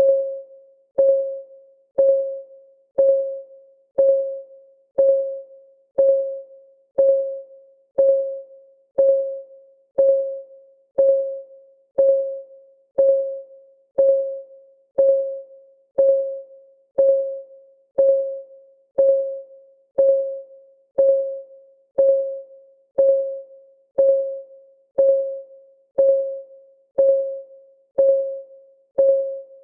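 Clock ticking sound of a countdown timer: a steady tick exactly once a second, each a short pitched tock that dies away quickly.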